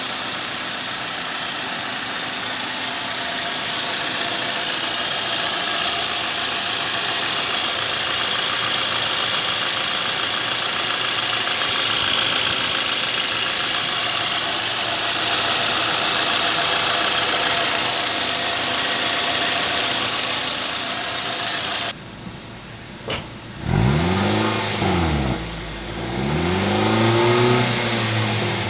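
Suzuki Swift petrol engine running steadily with a loud hiss. About 22 seconds in the sound drops away suddenly, and then the engine is revved twice, its pitch rising and falling each time.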